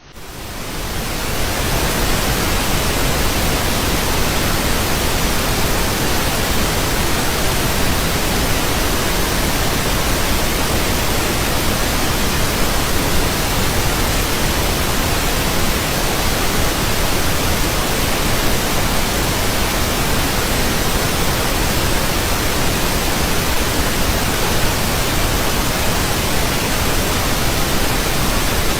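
Steady, even noise of the pink-noise kind, a smooth hiss with no rhythm or tones, fading in over about the first second.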